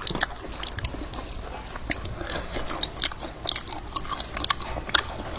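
A person biting and chewing crunchy food close to the microphone: a rapid, irregular run of sharp crunches and clicks.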